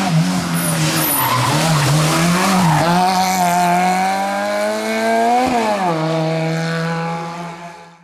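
Small rally car's engine revving hard on a tarmac stage. The pitch wavers through the corners, then climbs steadily, drops sharply for a gear change about five and a half seconds in, and climbs again before fading out near the end.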